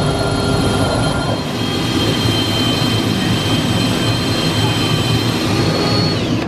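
A power tool cutting through the car's sheet-metal floor around a stuck seat-track bolt. It gives a steady high whine over rough, gritty metal noise, and the whine drops in pitch just before the end.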